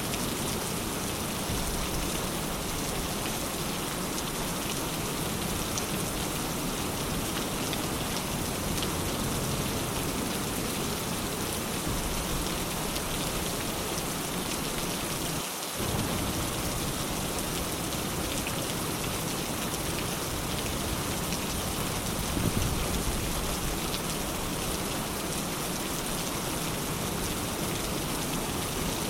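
Steady rain falling, an even hiss of drops on a surface, with the low end briefly dropping out about halfway through.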